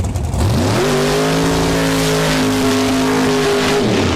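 An engine revving up, holding at a steady high speed, then dropping back near the end, with a strong hiss over it.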